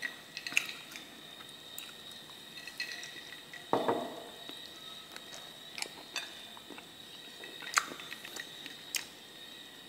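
Someone chewing and biting into crispy stir-fried frog: scattered sharp crunches and clicks, the loudest about eight seconds in, over a faint steady high whine.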